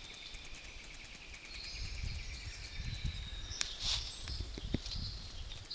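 Rainforest bird chorus with several birds calling over a steady pulsing trill. A sharp rising whip-crack call, the eastern whipbird's, cuts in about three and a half seconds in, followed by a louder high call. A low rumble of wind or handling on the microphone runs underneath.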